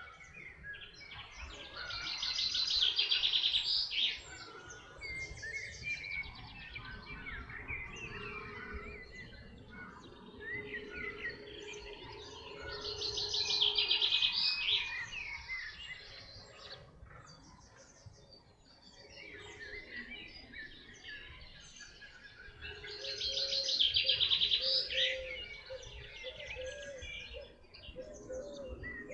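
Songbird singing a loud, rapid trilled phrase of two to three seconds, repeated about every ten seconds, with softer chirps from other birds between the phrases.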